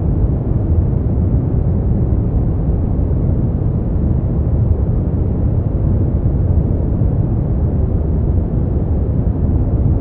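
Steady, unbroken synthetic noise track for sleep: a deep, rumbling hiss with most of its weight in the low range and almost nothing in the highs, closer to brown noise than to true white noise.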